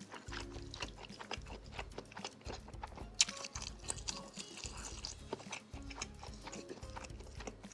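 Close-miked chewing of seblak, spicy instant noodles with crackers, meatballs and sausage, with many small wet mouth clicks, over background music with a steady bass line.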